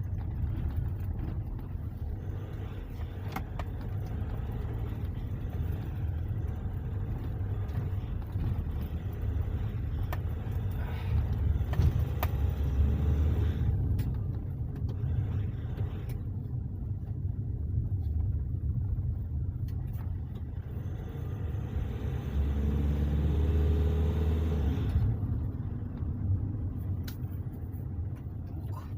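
Car on the move after its differential rebuild: a steady low rumble of engine and road noise that swells and eases, with the engine note rising briefly about three-quarters of the way through.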